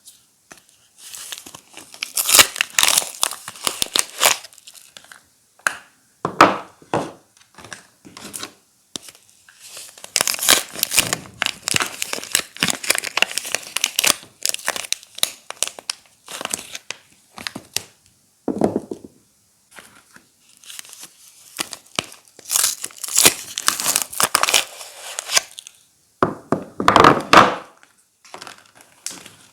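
Soap wrappers crinkling and tearing as bars of soap are unwrapped, in irregular spells with short pauses between.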